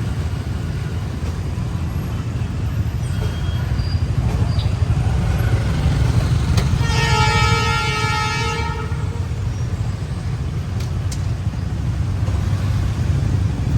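Train horn sounding one blast of about two seconds, a little past halfway, over a steady low rumble.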